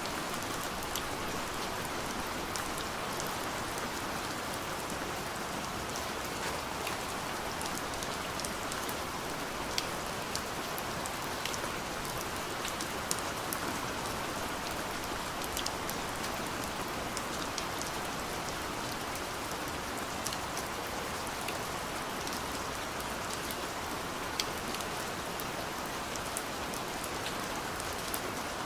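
Soft rain falling steadily on a window: an even hiss with scattered individual drops ticking against the glass.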